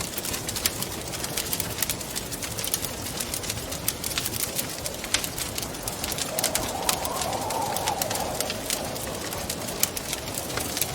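Wood fire crackling in a fireplace, with many sharp pops and snaps over a steady hiss. About six seconds in, a soft low tone swells and fades over a few seconds.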